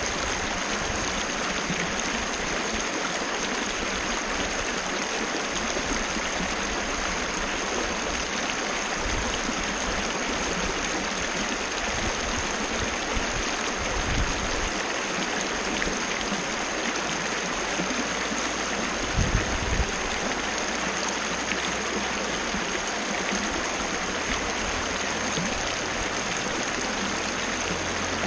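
Waterfall rushing steadily, a constant even wash of falling water, with a couple of brief low bumps about halfway and two-thirds through.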